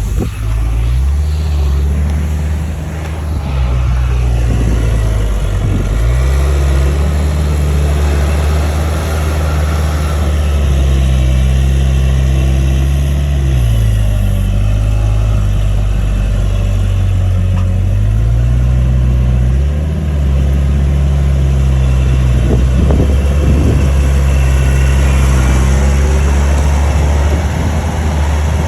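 Bulldozer diesel engine running loud under load. Its engine speed drops and rises again in steps several times.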